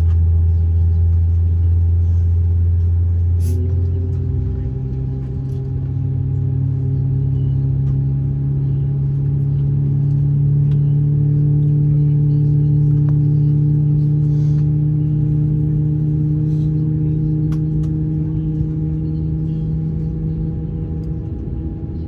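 Steady droning hum inside an Airbus A321neo cabin with its engines running at low power on the ground. Its tones step up in pitch about three and a half seconds in, then climb slowly for several more seconds before holding steady.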